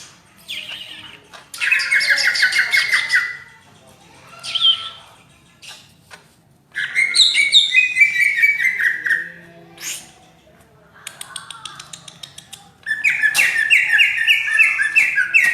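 Cucak ijo (greater green leafbird) singing in three loud phrases of rapid repeated notes a few seconds apart, with a fast dry rattle of ticks between the second and third phrases.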